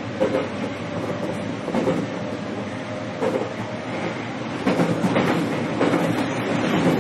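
Running sound heard inside a JR East EV-E801 series battery-electric train car, with a faint steady tone under the rolling noise. The wheels clack over rail joints, faster and louder from about two-thirds of the way through.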